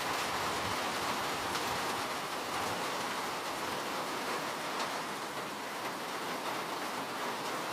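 Steady rain: an even hiss with a few faint drop ticks scattered through it.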